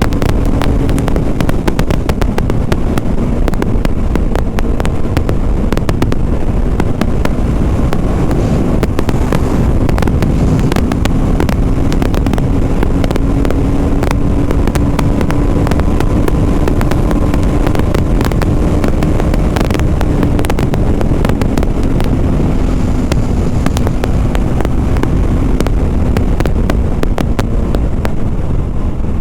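BMW G 310 RR's single-cylinder engine running at fairly steady revs while riding, its pitch drifting gently up and down, under heavy wind rush and crackle on the helmet microphone.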